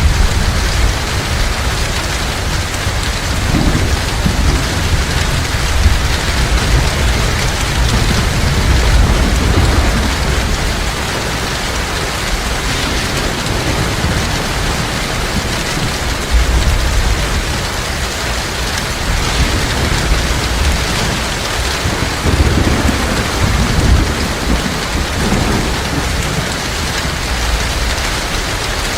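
Heavy rain falling steadily, with low thunder rumbling on and off underneath.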